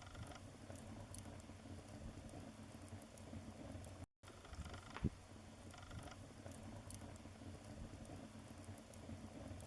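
Wood fire burning in a fireplace: a soft, steady crackle with scattered small pops and one sharper pop about five seconds in. The sound cuts out completely for a split second about four seconds in.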